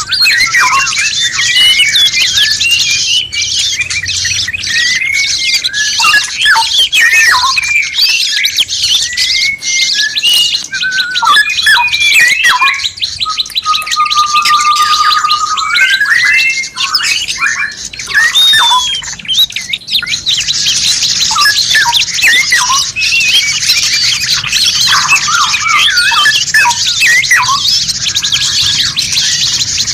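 Songbird masteran recording: several songbirds singing over one another in dense, fast chirps, trills and whistles. About halfway through one long, level whistle rises at its end. A high hissing chatter fills the start and the last third.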